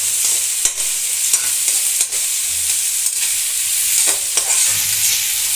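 Chopped onion, green chilli, ginger and garlic sizzling in hot mustard oil in a kadhai while being browned until golden, stirred with a spatula that scrapes and clicks against the pan now and then.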